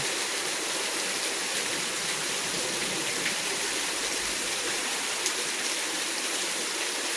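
Heavy storm rain falling in a steady, even rush.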